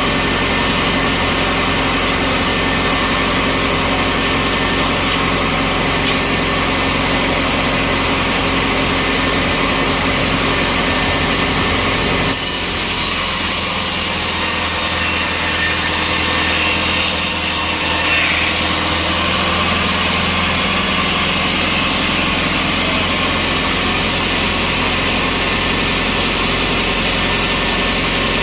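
Sawmill saw and its engine running steadily, cutting into a log. The sound changes abruptly about twelve seconds in, and a faint whine rises and falls shortly after.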